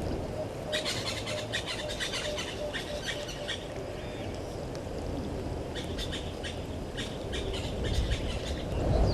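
Birds calling in quick runs of short, high chirps, in two bouts, over a steady low outdoor rumble; a louder low rumble swells at the very end.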